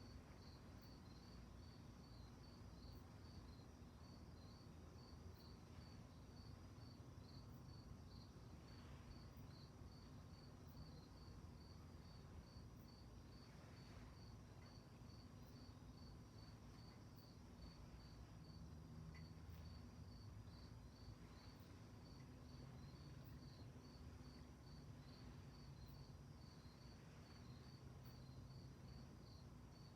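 Crickets chirping faintly, a steady, even pulse of high chirps a few times a second, over a low steady rumble.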